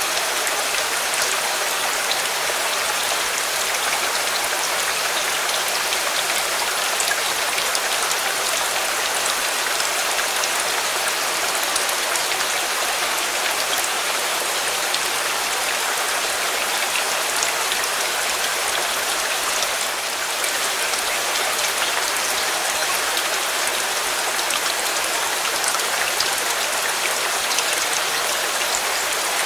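Steady heavy rain: an even hiss with scattered small ticks of drops.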